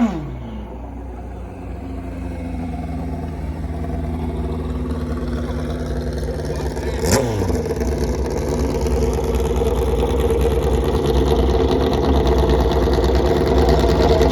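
Car engine running with a steady drone that slowly grows louder. A falling pitch right at the start, and a sharp click with another falling glide about seven seconds in.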